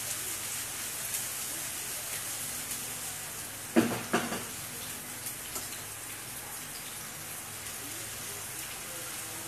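Sliced onions, ginger and garlic sizzling steadily in hot oil in a non-stick frying pan over medium heat, the sauté stage. Two knocks about four seconds in as the pan is set back down on the gas burner's grate.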